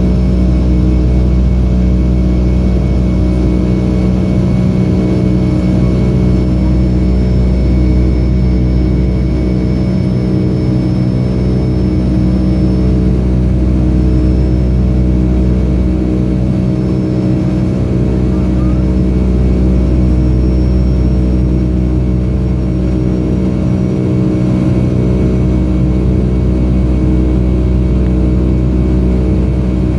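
Cabin noise of a Boeing 757-232 climbing after takeoff: its two Pratt & Whitney PW2037 turbofans give a steady, loud drone with a deep rumble underneath. A thin high whine sits above it and drifts slightly in pitch.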